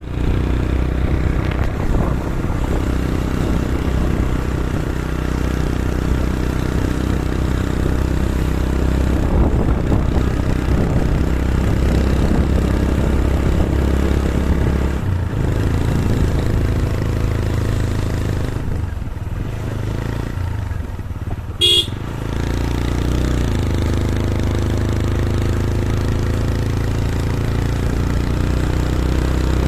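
A road vehicle's engine running steadily, its note stepping down and up a couple of times, with a short horn beep about 22 seconds in.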